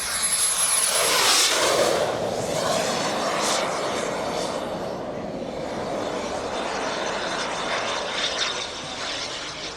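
Kingtech 26 kg-thrust turbine of a 1:5 scale RC F-16 jet flying past: a jet rush with a thin high whine that drops a little in pitch, loudest about a second in and then slowly fading as it moves away.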